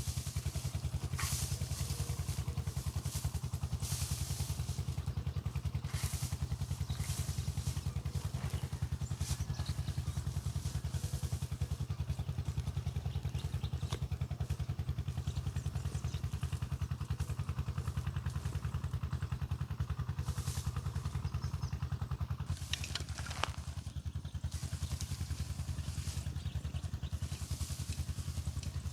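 Small engine of a motorized mowing machine running steadily as it cuts alfalfa, with brief rustling or clattering noises now and then.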